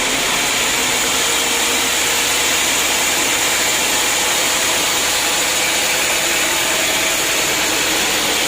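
Sawmill machinery running steadily, a loud even whir-and-hiss with no break, stepping up slightly in level at the start.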